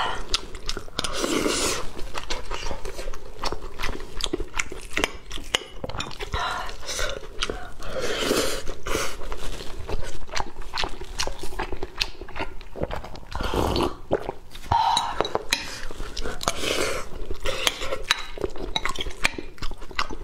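Close-miked chewing and wet mouth sounds of someone eating tomato and scrambled egg over rice, with many small sharp clicks. A metal spoon clinks and scrapes against a glass bowl now and then.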